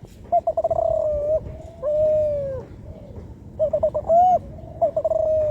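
Young spotted dove of the Kelantan tekukur strain, about four months old, cooing while still learning to arrange its song. Two phrases, each a quick stuttering run of short notes followed by a long coo that falls away at the end.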